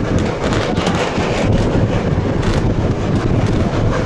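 Steady rumbling noise of a passenger train running along the track, heard from on board, with wind buffeting the microphone.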